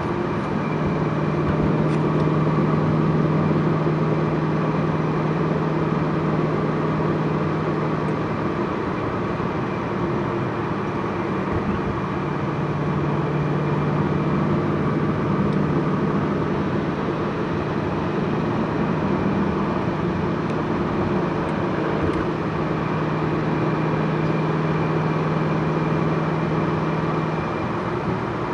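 Twin-turbocharged Ford GT V8 running at a steady cruise, a constant low engine drone mixed with road noise. The drone drops away for a few seconds near the one-third mark, then comes back at the same pitch.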